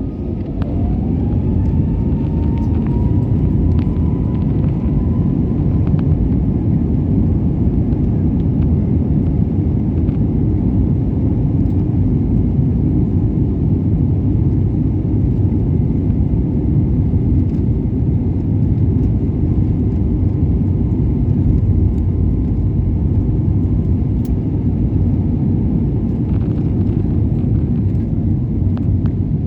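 Jet airliner's engines spooling up for take-off: a whine rises over the first few seconds, then holds steady over a loud, continuous rumble.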